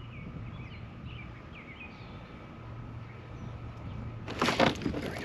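Small birds chirping faintly in short calls over a light steady outdoor background. Near the end a sudden burst of louder knocks and clatter comes in.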